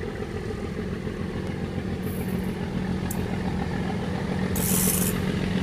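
Diesel locomotive engine of a bauxite freight train running steadily and slowly growing louder, with two short hisses about two seconds in and again near the end.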